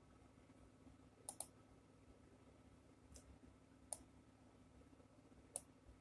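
Faint clicks of a computer mouse: a quick double click, then three single clicks a second or so apart, over a low room hum.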